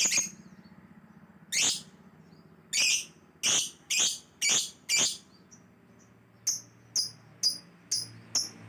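Yellow lovebird giving a string of shrill, sharp chirps, about a dozen in all: irregular at first, then coming about twice a second, the later ones shorter.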